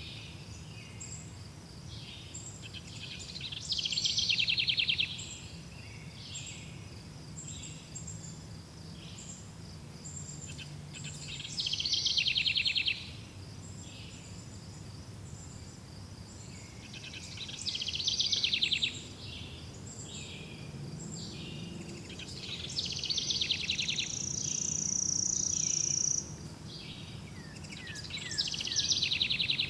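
Forest birdsong: a songbird repeats a rapid trilling phrase of a second or two about every five or six seconds, over a steady series of short, high chirps.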